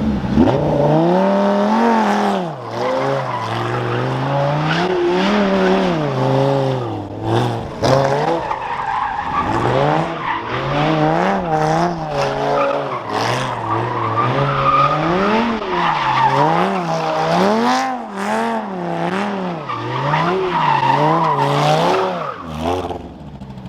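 Lamborghini engine revving up and down over and over while its tires squeal through donuts.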